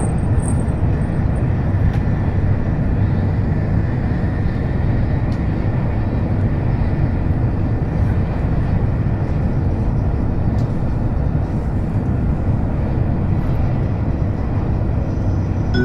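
Steady rumble and rush of an N700 series Shinkansen train running, heard from inside the passenger cabin.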